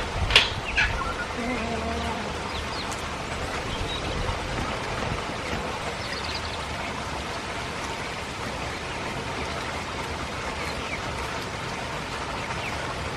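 Steady rain falling, with a bird calling sharply near the start and a few faint chirps later.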